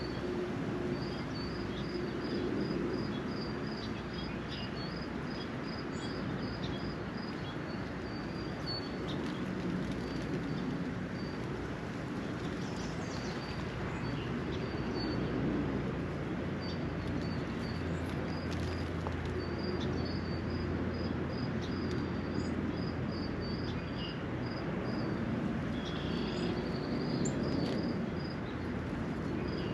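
A small bird repeating a short, high chirp several times a second in long runs, over the steady hiss of rain. A low rumble rises about halfway through and fades a few seconds later.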